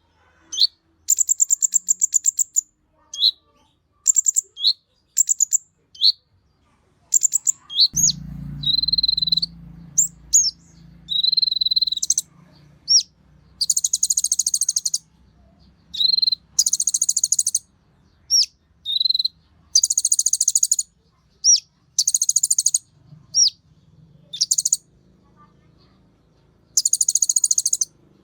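A konin sunbird singing in bursts of fast, high, buzzy trills mixed with short sharp rising chips, each phrase lasting a second or so with short gaps between. A faint low hum runs underneath from about a third of the way in.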